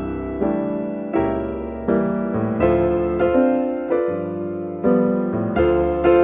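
Background piano music: notes and chords struck at an even, unhurried pace, about one every 0.7 seconds, each ringing out and fading before the next.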